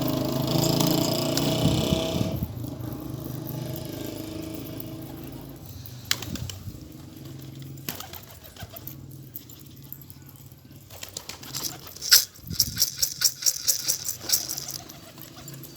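A motor vehicle engine running close by, fading away after about two and a half seconds. Near the end, one sharp clap is followed by a quick run of sharp rattling claps lasting about three seconds.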